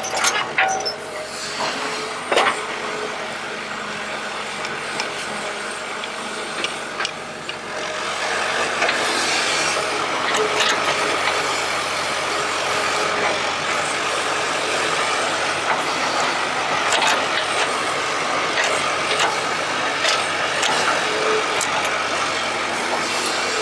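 E120B excavator working: steady machine noise with scattered clicks and knocks, getting louder about eight seconds in.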